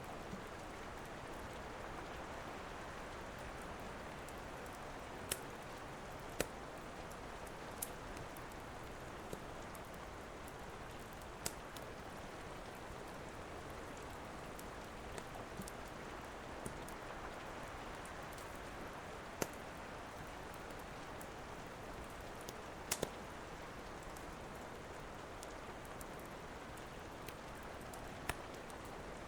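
Steady rain with the crackle of a wood fire: a constant hiss of rainfall, broken by about a dozen sharp, scattered pops from the burning logs.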